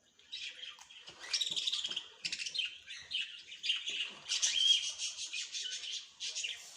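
Small birds chirping and twittering in quick, high trills, almost without a break, with the loudest notes a little past the middle.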